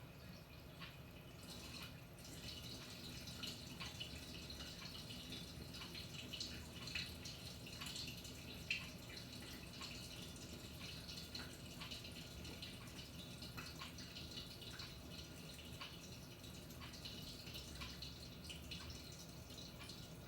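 Panasonic NA-FA100H9 top-loading washing machine during its wash cycle: water splashing and dripping inside the tub in many small irregular spatters, over a low steady hum.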